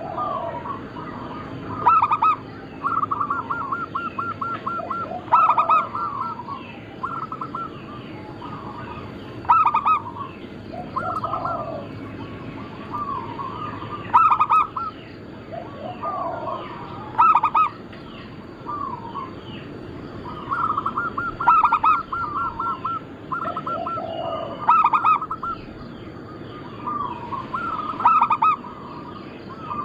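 Zebra doves (perkutut) cooing: several birds give repeated multi-note coos, some with rapid trilled runs. Their phrases overlap at different pitches, with a loud accented note every few seconds.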